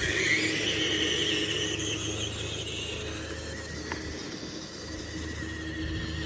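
Tamiya TXT-2 RC monster truck's motor and gears whining as it drives, the pitch wavering up and down and easing off after the first couple of seconds, with a single light click about four seconds in.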